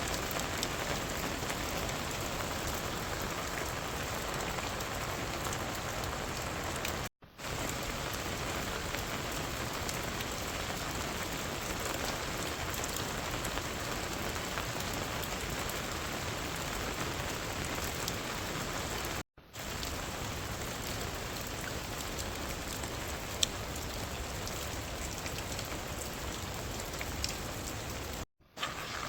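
Steady rain falling, an even hiss with scattered drop ticks, cutting out for a split second three times.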